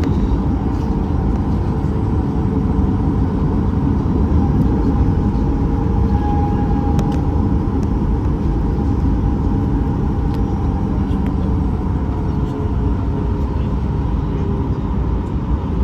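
Steady rumble of a Boeing 737-800's CFM56 jet engines and airframe heard from inside the cabin near the engine, with a faint steady whine over the low drone.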